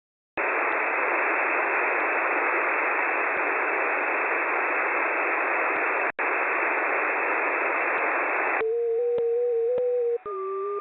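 Shortwave radio receiver hissing with static, cutting out for an instant about six seconds in. Near the end the static falls away and a slightly wavering tone with a fainter higher tone comes through, jumping in pitch shortly before the end.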